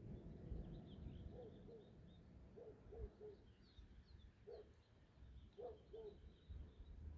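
Faint birdsong: many short high chirps, with a few short low calls coming in groups of two or three, over a low rumble.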